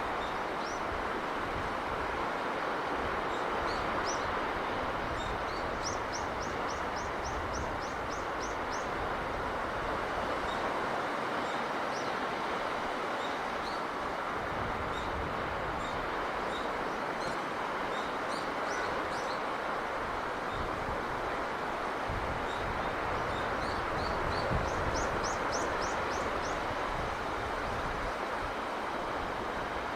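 Steady sea breeze blowing, with low gusts buffeting the microphone, and small birds chirping over it; twice a bird gives a quick run of about eight rising chirps.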